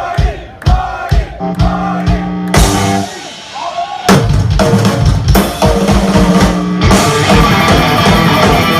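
Live heavy metal band: drum kit hits open, sustained bass and guitar notes come in about a second and a half in, and after a brief drop the full band plays loud from about four seconds in.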